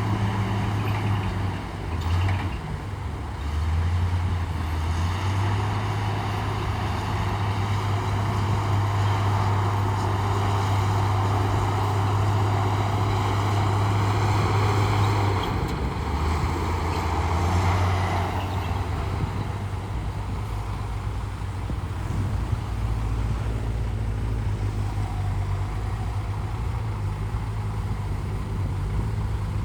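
Heavy diesel engine of a bulldozer working under load, a steady low drone that drops and recovers in pitch a few times, with a broad grinding rush of noise through the middle.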